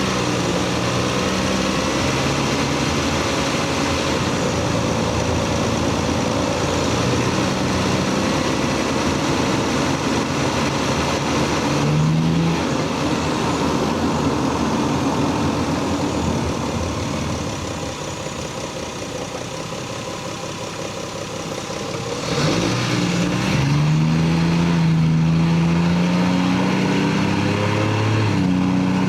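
Lexus GS300's 3.0-litre 2JZ straight-six engine and stock exhaust running. The revs climb briefly about twelve seconds in, settle lower for a few seconds, then rise in a longer pull that falls away sharply near the end.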